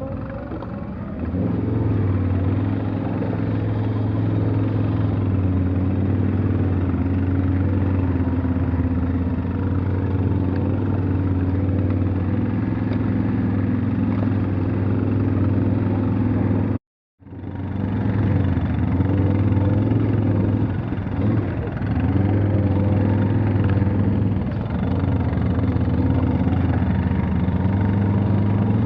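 Off-road vehicle engine running steadily under load as it drives, its pitch rising and falling a little with the throttle. The sound cuts out completely for a moment about seventeen seconds in, then returns.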